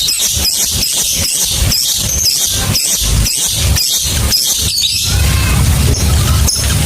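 Lovebird calling in a rapid series of shrill, high chirps, about three a second, which break off about five seconds in, followed by looser, softer chatter.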